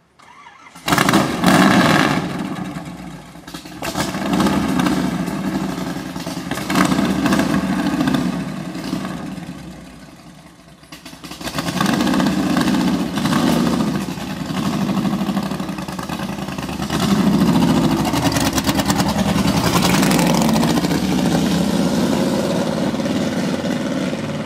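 Cheetah race car's V8 engine firing up about a second in, revved in several blips, then driving off loud with the throttle open.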